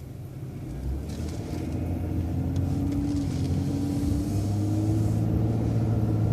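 City transit bus engine pulling away and accelerating, its drone growing steadily louder and rising slightly in pitch.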